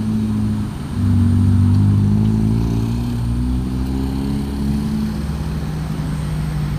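Vehicle engines on a steep uphill grade: a low engine drone that gets louder about a second in and holds, shifting a little in pitch.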